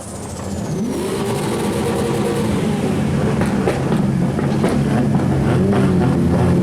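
Turbocharged drift car engine revving, with its anti-lag system firing sharp pops and bangs from the exhaust, several in the second half.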